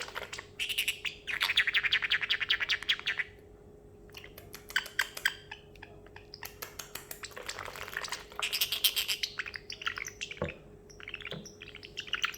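Parrotlet chattering: two long runs of rapid clicking chatter, with scattered short chirps and clicks between them.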